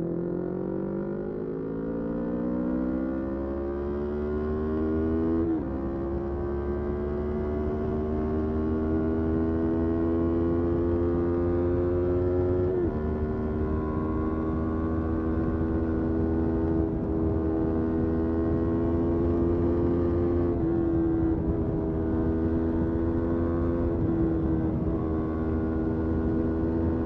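Motorcycle engine accelerating through the gears: the revs climb steeply, drop with upshifts about five and thirteen seconds in, then hold a nearly steady drone in a high gear with a couple of brief dips.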